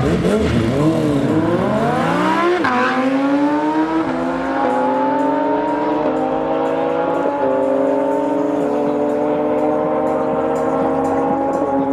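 A high-revving engine accelerating hard through the gears. Its pitch climbs, falls back sharply at each upshift (the first about two and a half seconds in, then several more), and climbs again.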